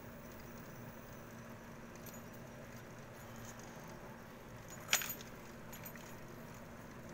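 A single sharp metallic clink about five seconds in, with a few faint ticks around it, over a steady low hum.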